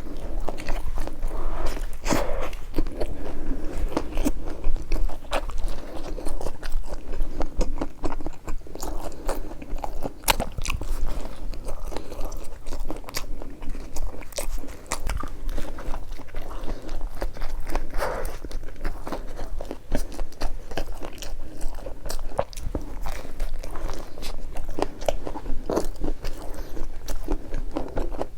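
Close-up eating of pizza bread: repeated bites and chewing, with many short, sharp crackles and crunches coming irregularly throughout.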